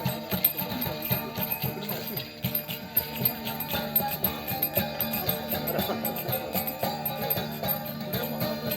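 Live music with jingling percussion keeping a steady beat under pitched instruments.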